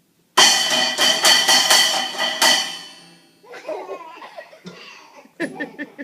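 A sudden loud crash: about half a dozen percussive strikes in quick succession with a metallic ringing that dies away over a couple of seconds. Voices and laughter follow about three and a half seconds in.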